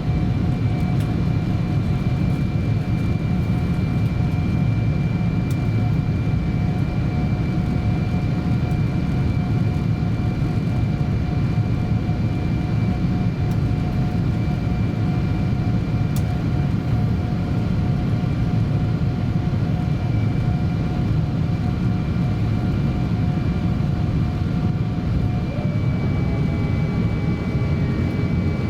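Cabin noise of a Boeing 777-200 airliner: a steady rumble of jet engines and airflow, with a few thin steady whining tones. The tones shift slightly near the end.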